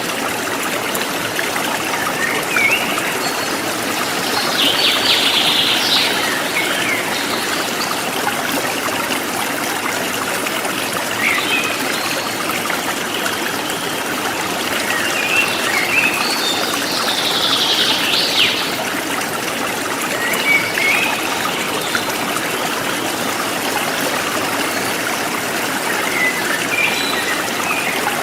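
Forest stream flowing and trickling steadily, with birds chirping now and then: scattered short calls, and two longer bursts of song about five seconds in and again about seventeen seconds in.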